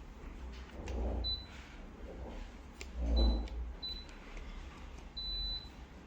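Four short high-pitched electronic beeps from an air conditioner, the last one longer, over a steady low hum. Two dull bumps come about one and three seconds in.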